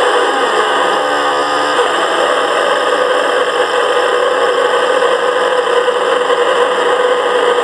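Live electronic noise music: a loud, dense wall of hissing, grinding texture. A brief pitched chord sounds about a second in, then a steady drone tone settles in and holds.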